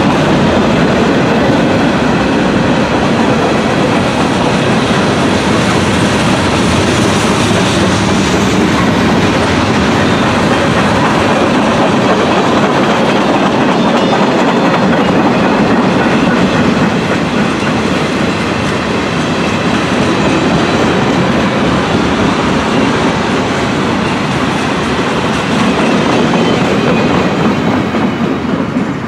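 Train cars rolling past on the rails, a loud, steady rumble that eases slightly in the last third.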